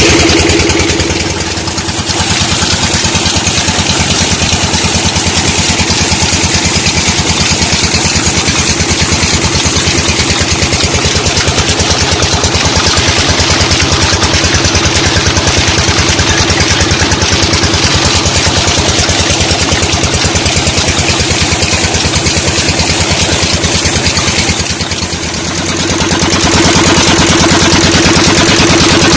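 12 hp Peter diesel engine running steadily with an even, rapid knocking beat while it drives a tube-well pump by belt. The sound turns briefly quieter twice, near the start and near the end.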